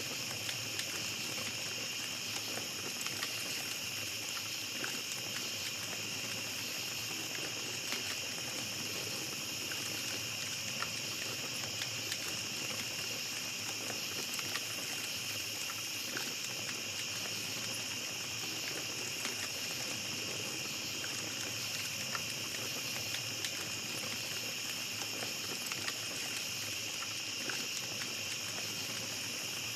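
Campfire crackling, with scattered small pops, over a steady high-pitched chorus of crickets or other night insects.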